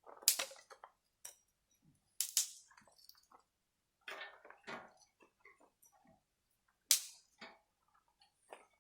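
Axe chopping wood: three sharp strikes, at the start, about two seconds in and the loudest about seven seconds in, with lighter knocks and cracks between. The axe is blunt and splits the wood by its weight rather than cutting it.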